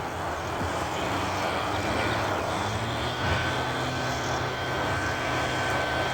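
Front-load garbage truck's diesel engine running steadily, with a thin high whine coming in about three seconds in.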